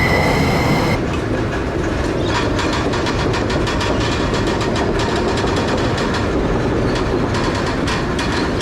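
Freight train rolling past: a high wheel squeal from the curving track cuts off abruptly about a second in, then the wagons' wheels rumble steadily with rapid clicks over the rail joints.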